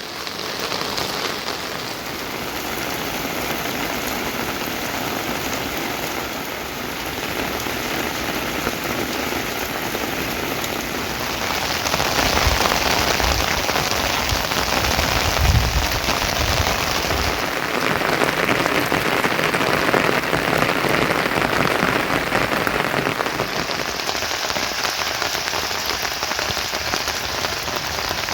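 Heavy rain falling, a steady hiss that grows a little louder partway through, with some low rumbling in the middle.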